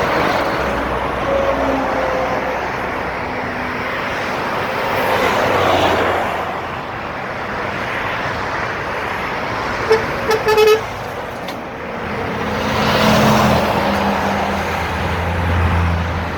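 Road traffic with vehicles passing, swelling twice. About ten seconds in, a horn gives three quick toots, and near the end a heavy engine's low drone grows louder.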